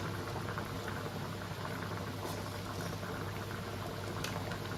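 Pot of chicken curry with coconut milk bubbling at a boil, a steady fine crackle of bubbles with a few small pops, over a steady low hum.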